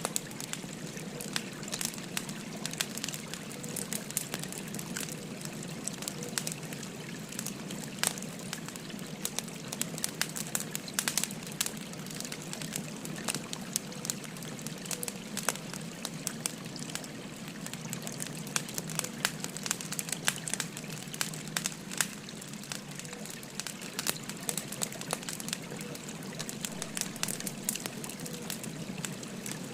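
Burning firewood crackling, with frequent sharp pops, over the steady babble of a flowing stream.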